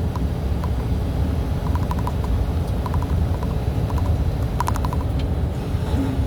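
Truck on the move: a steady low engine and road rumble with light, irregular clicking rattles and a short cluster of sharper clicks about four and a half seconds in.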